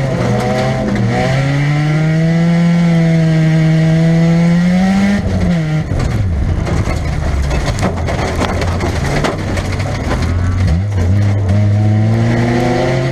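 Inside the car, the Nissan Pulsar's 1.8-litre four-cylinder engine revs under load, its note climbing for about five seconds and then dropping sharply. Crunching and knocks of metal from car-to-car contact follow over a lower engine note, and the revs climb again near the end.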